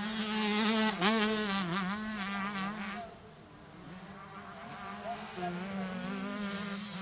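Two-stroke 125cc motocross bikes racing, with the engine pitch repeatedly rising and falling as they rev and shift. The engines are loud for the first three seconds, then drop suddenly to fainter bikes for the rest.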